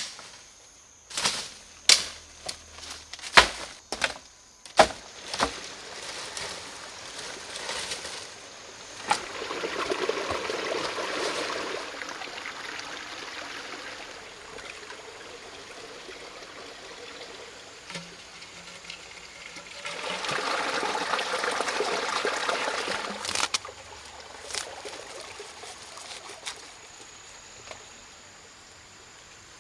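A run of sharp knocks, then water pouring or splashing in two spells of a few seconds each.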